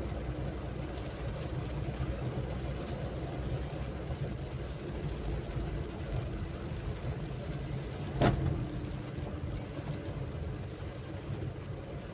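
Steady rumble of road traffic, with one sharp knock about eight seconds in that is the loudest sound.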